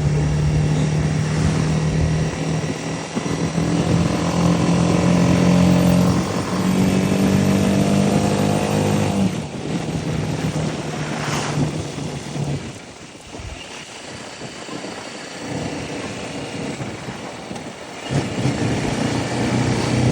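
BMW G 310 RR's single-cylinder engine running at road speed, its pitch climbing a little about six to nine seconds in. It drops off a little after nine seconds and runs quieter for several seconds, then picks up again near the end.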